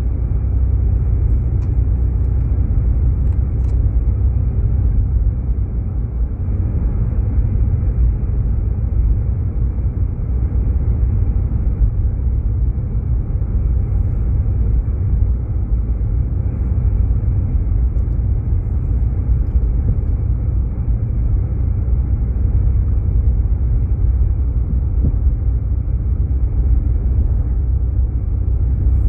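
Steady low rumble of a Jeep Grand Cherokee heard from inside the cabin while driving, engine and tyre noise on a snow-covered road.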